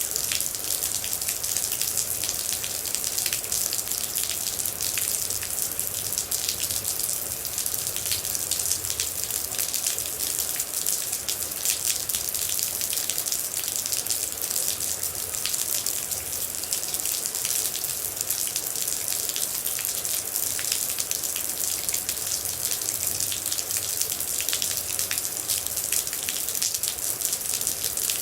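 Steady rain with water droplets falling close by: a constant hiss dotted with many small drop impacts.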